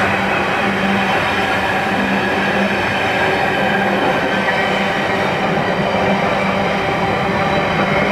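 Freight train of intermodal container wagons, several running empty, passing at speed: a loud, steady rumble and rattle of wheels on rail, with a low hum that comes and goes.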